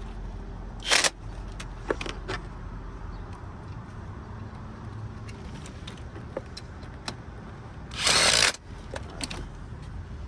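Small metallic clicks and knocks from hand-tool work on a vehicle, with two short loud bursts of noise, one about a second in and a longer one near the end.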